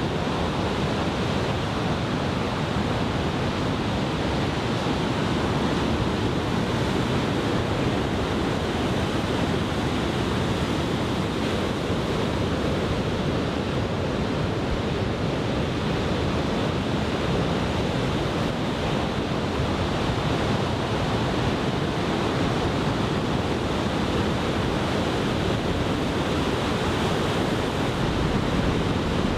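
Heavy surf from a typhoon swell breaking and washing onto the beach, a steady, unbroken rush of waves, with wind on the microphone.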